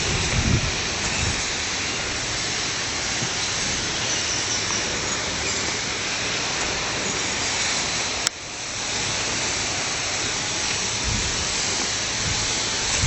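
Steady rushing of stream water flowing over rocks, with a sharp click about eight seconds in after which the sound drops briefly and comes back.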